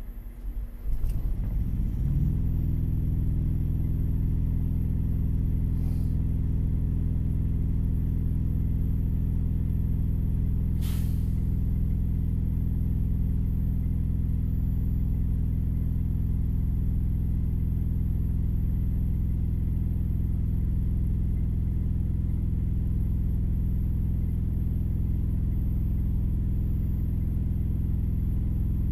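An engine cranks and catches about two seconds in, then idles steadily and evenly, heard from inside the vehicle. A brief sharp click or hiss comes about eleven seconds in.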